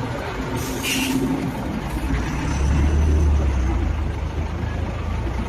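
Heavy trucks in traffic: a steady engine rumble with a short hiss about a second in and a briefer one near two seconds. The rumble grows heavier from about two and a half seconds in.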